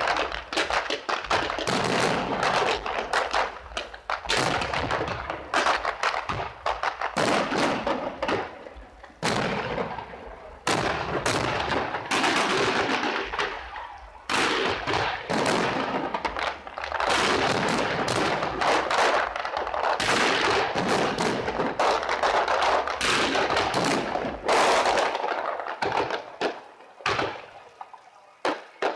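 Fireworks display going off in rapid, overlapping bangs, with a few short lulls, thinning to a few scattered reports near the end.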